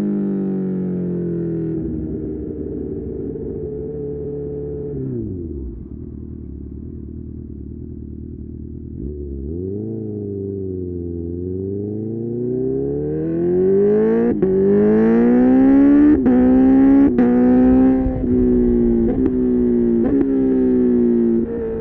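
Honda CB1000R's inline-four engine through an Akrapovic exhaust, heard onboard while riding. The revs fall as the bike slows and it runs low for a few seconds. The rider then blips and rolls on, and the revs climb hard, with three brief sharp cuts from quickshifter upshifts before it settles to a steadier pull.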